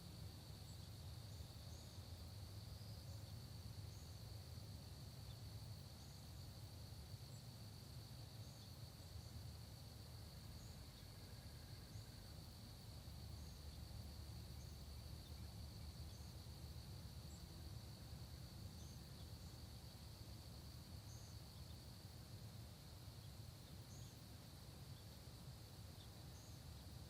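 Faint, steady, unbroken high trill of insects such as crickets in a late-summer dawn countryside, with scattered brief faint bird chips and a low rumble underneath.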